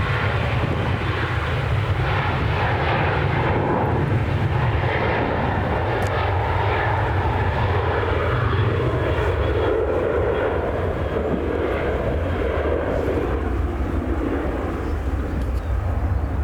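Jet engines of a Ryanair Boeing 737-8, CFM LEAP-1B turbofans, running at high power on departure: a loud, continuous rush over a low rumble that eases off about two thirds of the way through.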